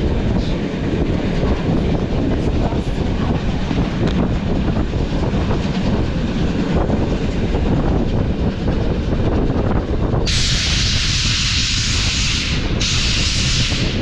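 Steam-hauled train running on the rails, a steady low rumble with faint wheel clicks. About ten seconds in, a loud hiss of steam cuts in, stops briefly and starts again.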